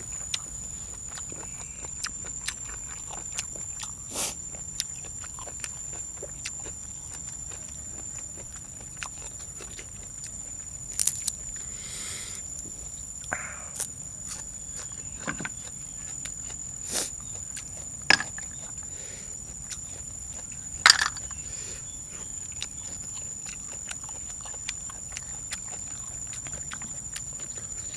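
Close-up eating sounds: steady chewing with scattered small clicks and smacks, and a few louder sharp clicks about 11, 17, 18 and 21 seconds in, over a constant thin high tone.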